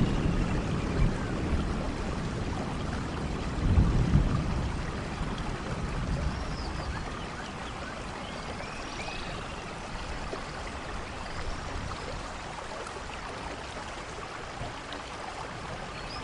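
Steady rainforest rain with a low rumble of distant thunder that swells about four seconds in and then fades. Faint high chirping calls come through the rain now and then.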